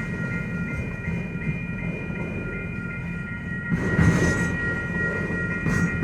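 Norfolk Southern freight train's cars rolling past with a steady low rumble and a steady high-pitched tone, with two louder clatters of wheels over the rails, about four seconds in and near the end.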